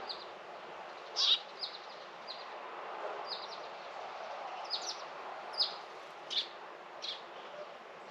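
Small songbird chirping: a loose series of short, high chirps, one every half second to a second, the loudest just over a second in, over a steady background hiss.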